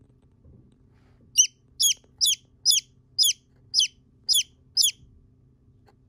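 A small bird calling: eight sharp, high peeps in a row, each falling in pitch, about two a second.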